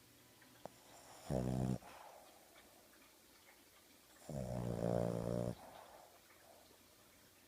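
A sleeping dog snoring: a short snore about a second in, then a longer one past the middle, each a low drone with a steady pitch.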